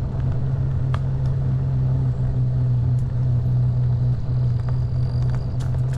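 Steady low hum and rumble of an e-bike being ridden along a paved trail.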